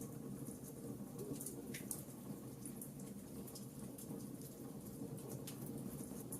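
Wood fire in a fireplace crackling, with irregular small pops and snaps over a steady low rumble of the flames, one sharper pop about two seconds in.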